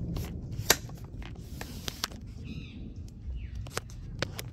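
Birds chirping outdoors: a few short chirps and a falling call over a low, steady rumble, with scattered sharp clicks.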